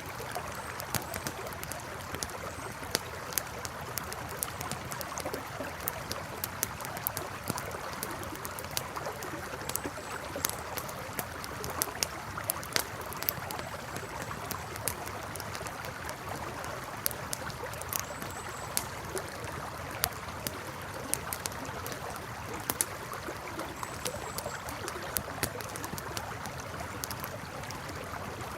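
Campfire crackling with irregular sharp pops over a river flowing steadily.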